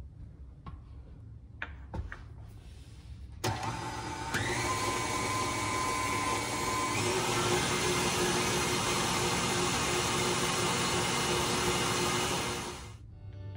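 KitchenAid stand mixer with a wire whisk, switched on about three and a half seconds in after a few light knocks, stepping up in speed a second later and then running steadily as it whips macaron meringue, winding down just before the end.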